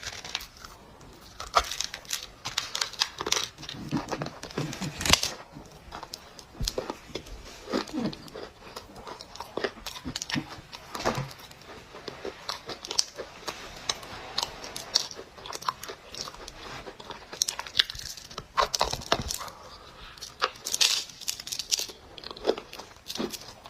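Dry clay crunching and crumbling, an irregular run of crackles and sharp snaps, some louder than others.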